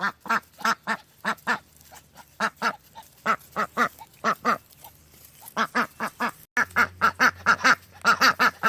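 Ducks quacking: runs of short, nasal quacks, a few a second. About six and a half seconds in, a short break, then faster, louder quacking.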